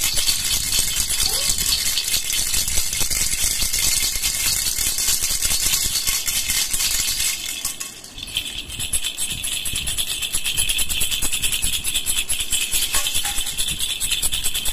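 Baby rattle (jhunjhuna) shaken steadily in quick strokes, its beads giving a dense, rapid rattle. The shaking falters briefly about eight seconds in, then resumes with a brighter, more jingling tone.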